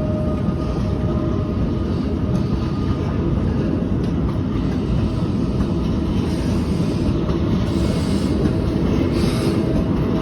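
Talgo-built Afrosiyob high-speed train running: a steady, loud noise, heaviest at the low end.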